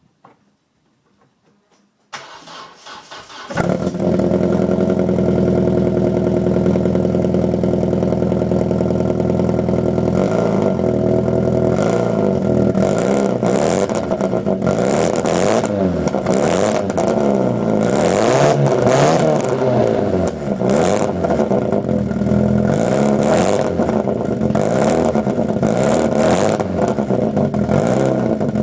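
Vauxhall Corsa 1.6 Sport's four-cylinder engine breathing through a straight-through centre section and 3-inch outward rolled backbox: it cranks about two seconds in, catches a second later and idles, then from about ten seconds in is revved again and again in short blips.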